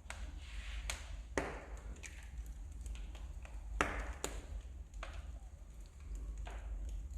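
Wood fire burning in a fireplace, crackling with sharp, irregular pops and snaps from the burning logs, the loudest pair about four seconds in.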